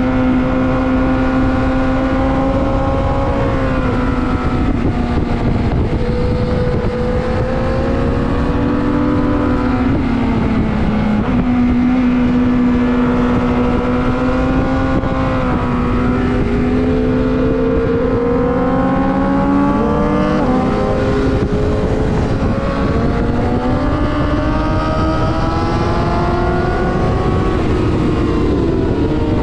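Sport motorcycle engine running hard at track speed, its note holding, dropping sharply about ten and twenty seconds in, then climbing again as the bike slows and accelerates, over a steady rush of wind noise.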